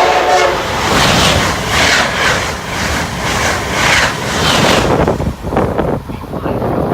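A train passes close by at speed. The tail of its horn cuts off about half a second in, then loud rushing wheel-and-rail noise follows, pulsing about twice a second and easing off near the end.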